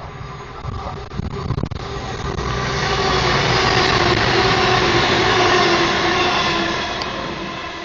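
Diesel multiple-unit train passing by, its noise swelling to a loud peak and then fading, with a steady whine from the train that drops slightly in pitch as it goes past.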